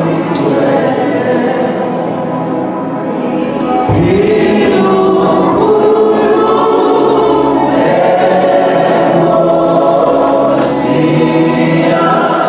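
Congregation or choir singing a gospel song together, many voices holding long sustained notes.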